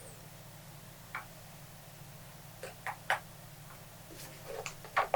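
A few short, sharp clicks and taps: one about a second in, a cluster of three around the middle and more near the end, over a faint steady hum.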